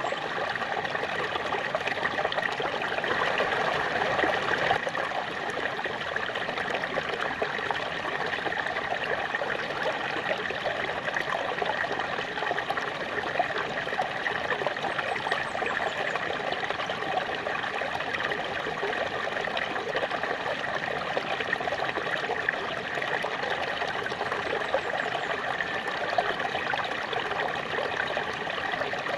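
Small waterfall: water falling and splashing steadily, a constant rushing trickle with no break.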